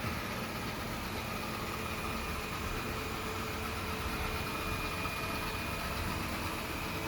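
Yeedi Vac 2 Pro robot vacuum running as it cleans: a steady motor hum and whir with a few faint constant whining tones.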